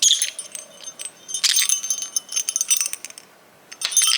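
A small metal bell shaken in three bursts of jingling: a short one at the start, a longer one in the middle and a brief one near the end.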